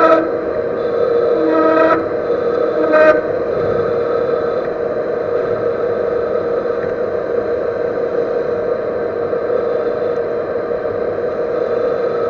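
Metal lathe turning a repaired servo motor shaft, running steadily with cutting noise; a high-pitched squeal from the cut sounds up to about two seconds in and once more briefly about three seconds in. The squeal comes from the workpiece being gripped over only a short length.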